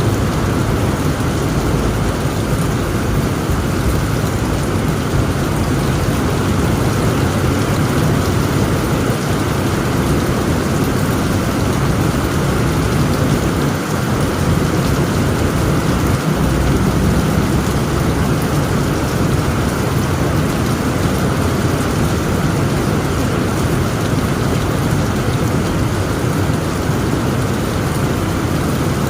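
Heavy rain pouring steadily onto a tent roof, with a low rolling rumble of thunder underneath that swells a little around the middle.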